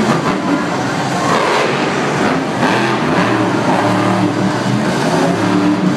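Monster truck engine running loud and revving, its pitch rising and falling again and again.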